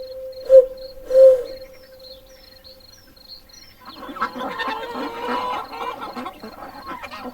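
Domestic chickens clucking, many overlapping calls starting about four seconds in. Before that come a few short calls and a faint, regularly repeated high chirp.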